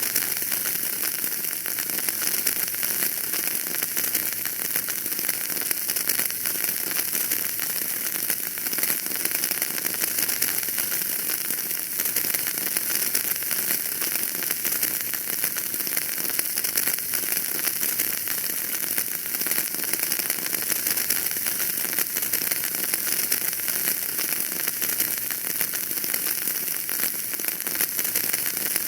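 Wood fire crackling in a fireplace: a dense, steady stream of small crackles and pops.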